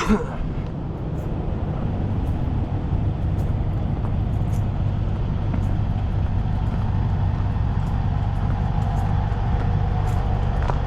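Heavy truck diesel engine running steadily, a low even hum with a faint higher tone coming in over the second half.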